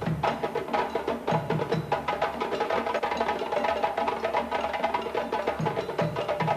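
Drums and clattering wood percussion playing a fast, dense rhythm, with deep drum thumps repeating under many quick sharp strokes.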